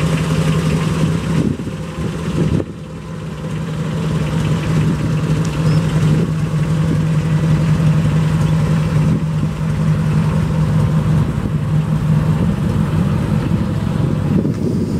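Mildly built 283 cubic-inch small-block Chevrolet V8 of a 1962 Impala idling steadily with a constant low hum, briefly quieter about two seconds in.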